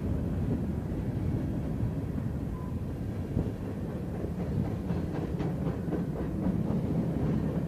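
Freight train cars rolling past on the tracks: a steady low rumble, with a quick run of clicking from the wheels partway through.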